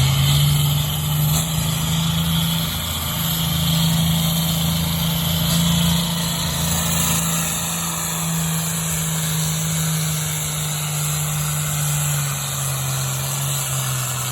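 A pulling vehicle's engine running steadily under load while pulling the sled, with its pitch dropping slightly near the end.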